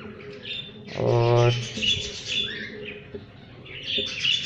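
Budgerigars chattering, with continual high chirps and warbles from the breeding birds.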